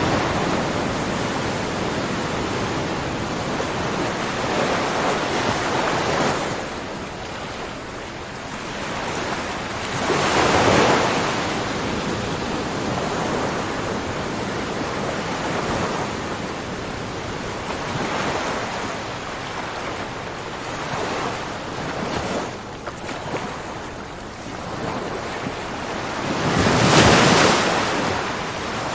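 Ocean waves washing ashore in a steady rush of surf, with swells that rise and fall; the biggest breakers come about ten seconds in and again near the end.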